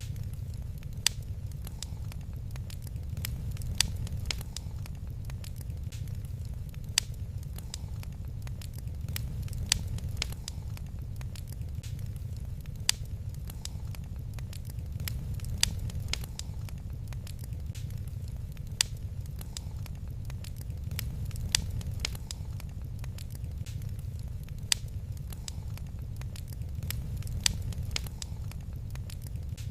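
Wood fire in a fireplace crackling, with sharp pops over a steady low rumble; a louder pop stands out about every three seconds.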